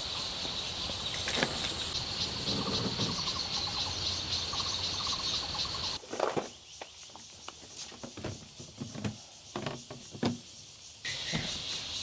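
Steady chorus of insects with a high, continuous chirring. About halfway through it cuts out for a quieter stretch of scattered clicks and knocks, like gear being handled, and the chorus comes back near the end.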